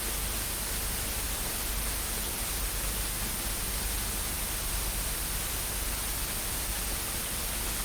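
Steady static hiss at an even level, with a low hum underneath.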